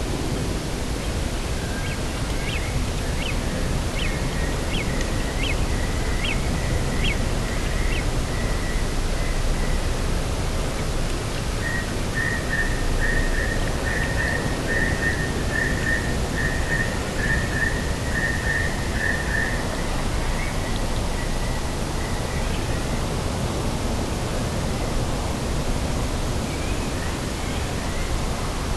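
Steady outdoor rushing of wind and sea, with a bird calling over it: a string of short high notes a few seconds in, then a long rapid trill in the middle.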